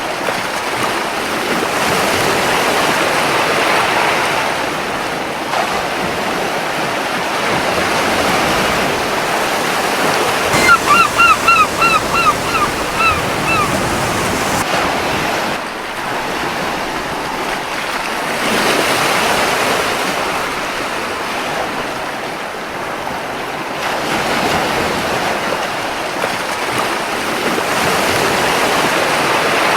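Surf washing onto a beach, the noise of the waves swelling and easing every few seconds. About a third of the way in, a gull gives a quick run of about eight short cries.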